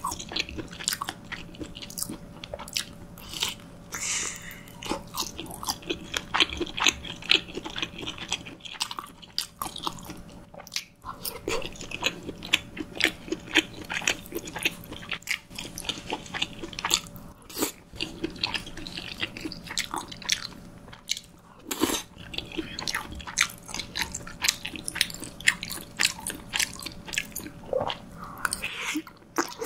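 Close-miked chewing of creamy wide-noodle pasta, with many quick mouth clicks and smacks coming irregularly throughout.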